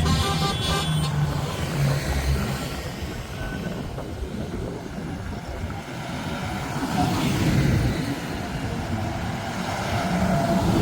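A heavy vehicle's engine running steadily, louder near the start and again about seven seconds in, with a brief horn-like tone at the very start.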